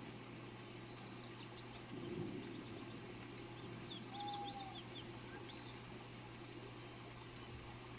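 Steady rain hiss with scattered bird calls: a few quick high chirps about a second in and again between four and five and a half seconds, and one short whistled note around four seconds. A brief low swell comes about two seconds in.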